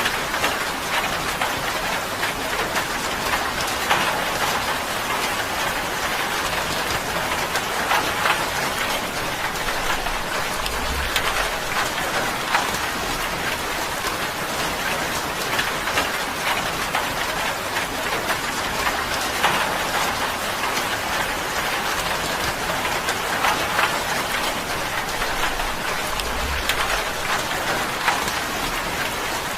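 Rain drumming steadily on a tin roof: a dense, even patter with many individual drops ticking sharply on the metal.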